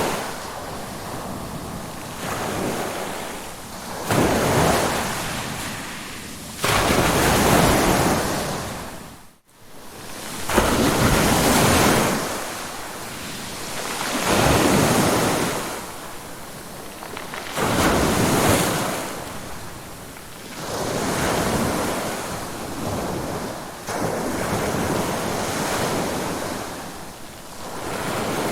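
Ocean waves breaking and washing in, swelling and fading every few seconds. There is a brief, sudden dropout in the sound about nine seconds in.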